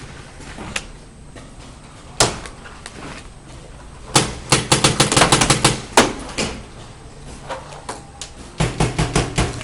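Paintball markers firing: a couple of single shots, then a rapid string of shots about four seconds in, and another quick burst near the end.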